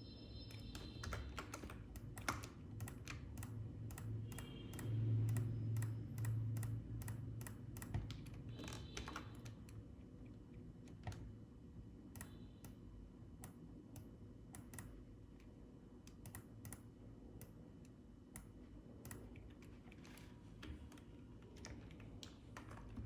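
Irregular clicking of computer keys, in quick runs and single taps. A low hum runs underneath and swells briefly about five seconds in.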